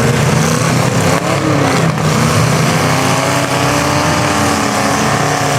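Demolition derby cars' engines running and revving, rising and falling in pitch, with a couple of sharp knocks about a second and two seconds in.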